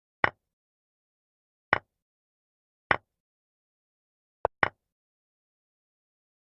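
Chess move sound effects: five short sharp clicks as pieces are moved in a fast blitz game, spaced irregularly about a second apart, with two in quick succession about four and a half seconds in.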